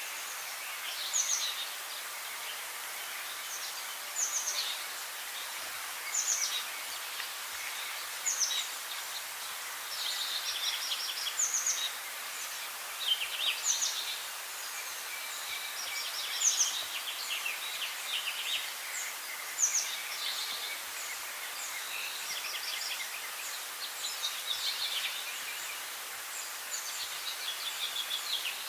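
Songbirds singing over a steady background hiss: one bird repeats a short song about every two seconds, each song opening with a high falling note and ending in a quick trill, while fainter chirps go on underneath.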